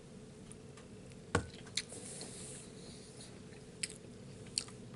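A person chewing a mouthful of tamale, with a few sharp clicks, the loudest about a second and a half in, over a steady low room hum.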